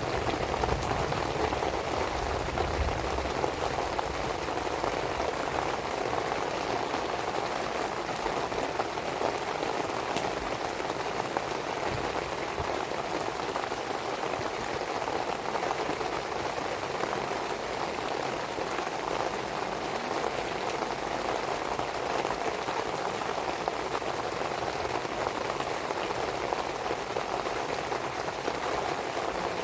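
Steady rain falling, with a few faint pops from a burning wood fire.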